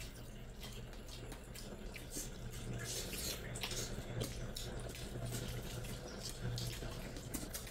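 Wet chewing and lip-smacking of people eating curry and rice by hand: soft, irregular mouth clicks and squelches over a low hum.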